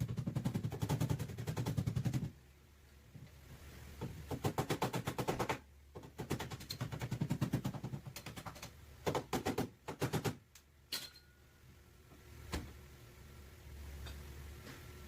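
A pneumatic body-shop tool hammering at a rapid, even rate in several bursts of one to two seconds each on the car's sheet-metal back panel. The bursts stop about ten seconds in, leaving a couple of single clicks and a low hum.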